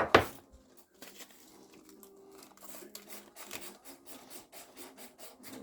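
New brake pads being handled and taken out of their packaging: a sharp knock just after the start, then a run of small irregular clicks and rustling.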